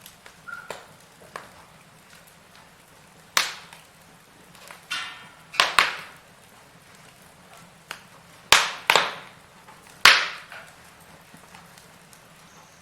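Firewood burning in a fireplace, crackling with sharp, irregular pops, the loudest a second or two apart, over a faint steady hiss. A short hiss comes about five seconds in.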